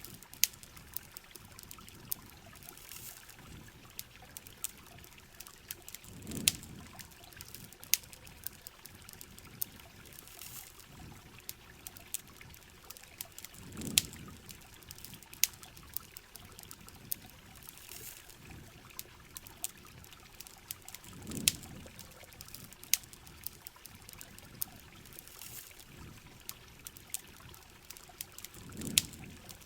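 Rain and campfire ambience: steady rain hiss with frequent sharp crackles and pops from the fire. A low rushing swell of water comes back about every seven and a half seconds.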